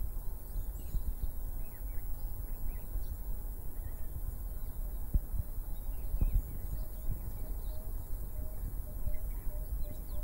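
Outdoor bush ambience: faint, scattered bird chirps over a low rumble with occasional soft thumps. From about seven seconds in, a bird repeats a short low note about three times a second.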